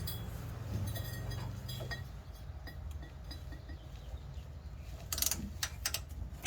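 Hand tools loosening a bumper bolt: faint ratchet clicking and small metal clinks, with a cluster of louder clicks about five seconds in and a sharp knock at the very end.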